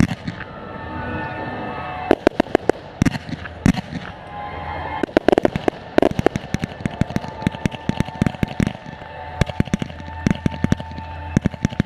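Professional fireworks display heard close to the launch site: rapid cracks and bangs of shells being fired and bursting, coming in dense clusters of sharp reports every couple of seconds.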